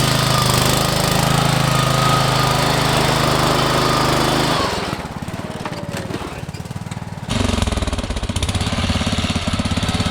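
Modified mud-racing lawn tractor engine running hard under throttle. The sound drops sharply about four and a half seconds in and comes back loud near seven seconds in.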